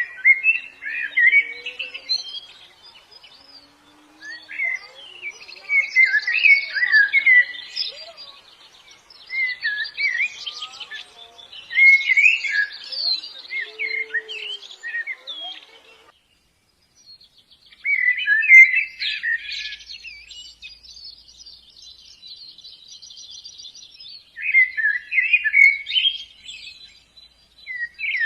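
Flock of white-eyes (pleci) twittering: bursts of quick, high chirping phrases, a second or two each, with a thin high chatter between them. The sound cuts out abruptly for about a second midway, then the twittering resumes.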